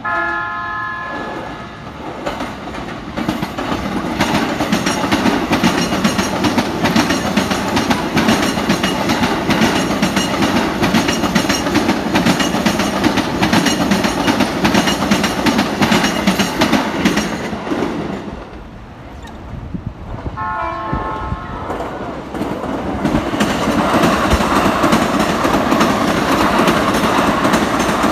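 A train horn sounds briefly at the start. Then JR Chuo Line E233 series electric trains run past with a steady rumble and a rhythmic clatter of wheels over the rail joints, which eases off about 18 seconds in. A second short horn blast comes about 20 seconds in, and another train runs past to the end.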